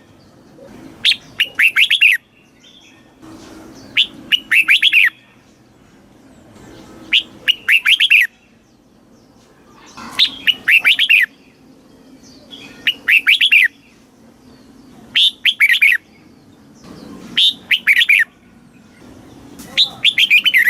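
Red-whiskered bulbul singing one short, loud phrase over and over, about every two and a half to three seconds. Each phrase is a sharp note or two followed by a quick run of falling notes.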